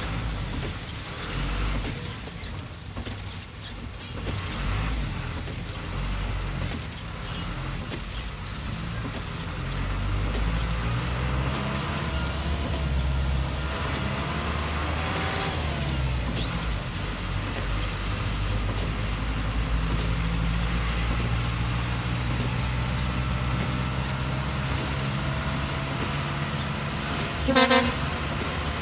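Road traffic in a slow jam: a steady low rumble of idling and creeping car and bus engines. A car horn gives one short loud toot near the end.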